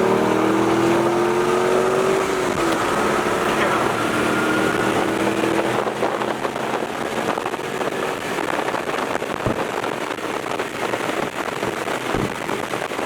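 Corvette V8 accelerating hard, its pitch rising, with a gear change about two and a half seconds in and a second rising pull to about six seconds. After that the engine settles and a loud rush of wind and road noise takes over.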